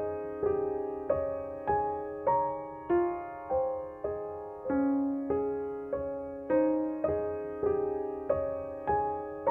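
Background music: a slow solo piano melody, single notes struck about every half second or so, each ringing and fading before the next.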